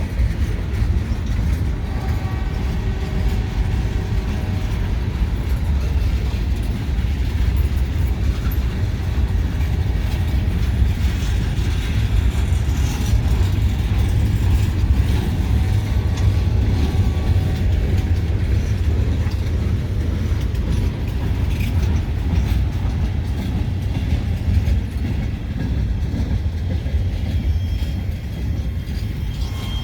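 Great Lakes Central Railroad train rolling past: a steady low rumble of wheels on rail.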